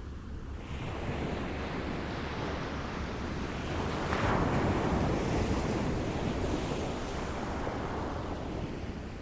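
Small waves lapping, one wave swelling and breaking about four seconds in, then washing back, with some wind on the microphone.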